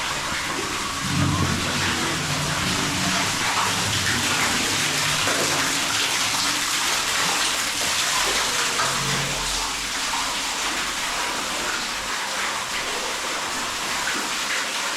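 Steady rush of running water, an even hiss that holds throughout, with a faint murmur of voices underneath in the first few seconds.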